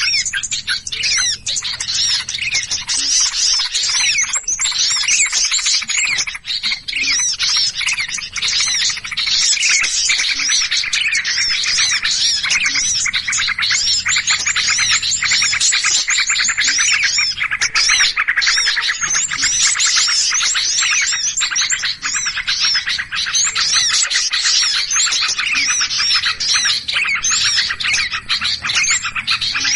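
Dense chorus of many small songbirds chirping and trilling at once, calls overlapping without a break: an agitated, noisy flock call of the kind played as a lure to draw small birds in.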